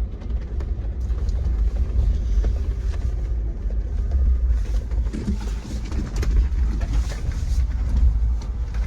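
Jeep driving off-road on a rough dirt trail: a steady low rumble of engine and tyres, with scattered knocks and rattles over the bumps.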